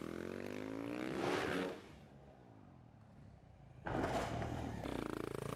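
Motocross bike engine revving, rising in pitch. It drops away for about two seconds in the middle, then comes back suddenly and climbs again.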